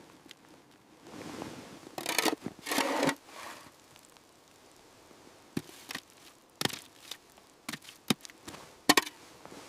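Stones being shifted and set: two short scraping rushes about two seconds in, then a run of sharp clicks and knocks.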